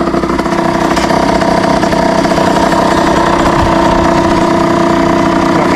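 Motorbike engine idling steadily at an even pitch.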